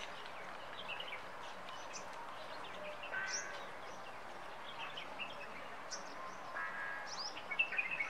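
Birds chirping and twittering: many short high chirps, with a couple of fuller calls, over faint steady outdoor noise.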